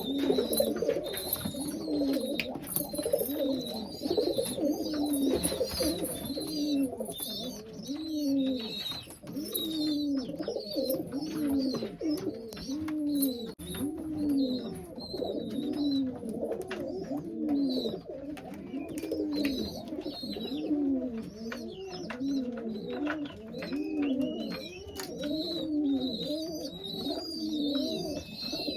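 Domestic pigeons cooing over and over, the low rising-and-falling coos coming about every second or so and overlapping from more than one bird.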